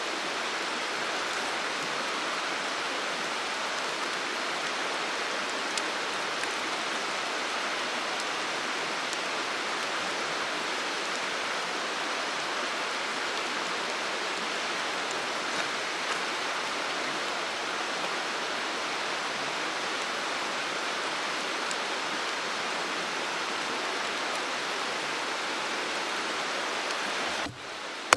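Mountain stream rushing over rocks: a steady, even rush of water that cuts off abruptly near the end.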